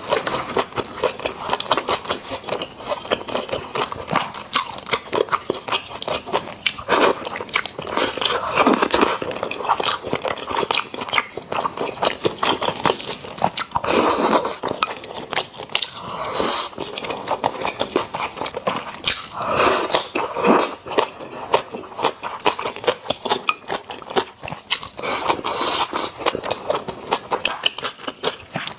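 Close-miked chewing and wet mouth sounds of someone eating braised pork belly and rice: a steady stream of sticky smacks and small clicks.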